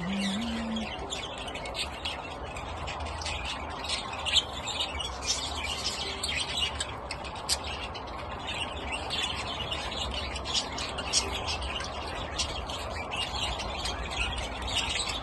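A flock of birds chirping: a busy stream of short, high chirps, several a second, over a steady low hum.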